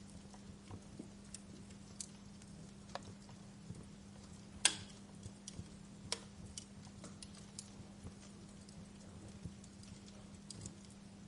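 Wood fire crackling in a fireplace: irregular sharp pops and snaps over a faint steady hiss and low hum, the loudest pop a little under five seconds in.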